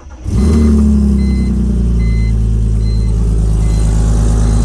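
BMW E46 engine cranking and catching about a third of a second in, flaring briefly, then settling into a steady, loud idle rumble. A warning chime beeps about once a second through it.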